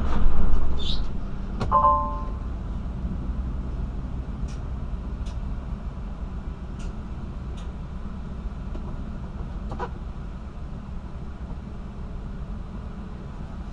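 Steady low engine and road drone inside a semi-truck's cab, with a brief louder burst of noise at the very start. A short electronic beep sounds about two seconds in.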